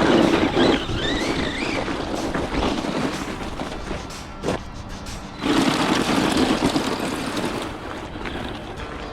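Tamiya Monster Beetle RC monster truck driving with its 3300 kV brushless motor. The motor whine rises and falls with the throttle over the noise of the tyres on the ground, with loud surges at the start and again about five and a half seconds in.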